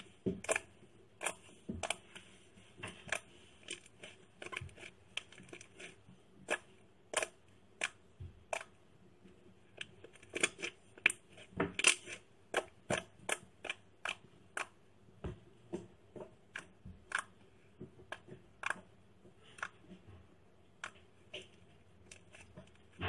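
Slime being pressed and played with by hand, giving a long run of irregular sharp clicks and pops, about one to three a second.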